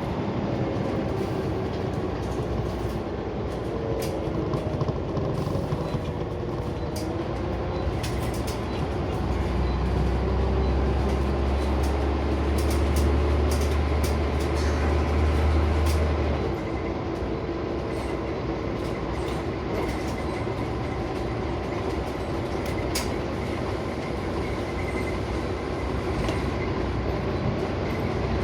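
Scania Omnicity single-deck bus heard from inside the saloon while under way: the diesel engine drones steadily, its low drone growing stronger for several seconds around the middle, with the pitch gliding early on and scattered sharp clicks and rattles from the interior.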